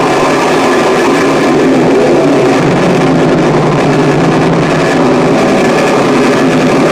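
Harsh noise music: a loud, dense, unbroken wall of distorted noise, steady in level throughout.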